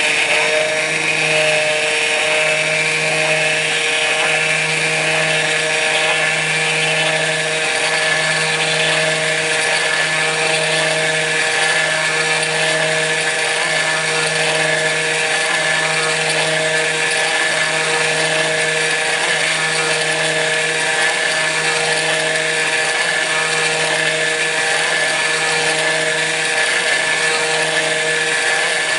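Kress FME-1050 router spindle running steadily on a CNC mill, milling aluminium: a loud, even whine with a low hum that pulses about every second and a half.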